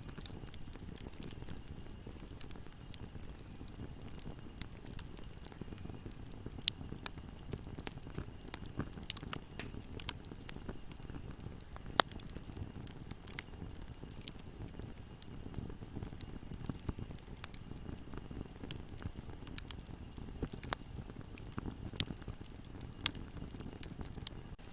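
Bonfire burning: a steady low rumble of flames with scattered crackles and pops, two sharper pops about a quarter and halfway through.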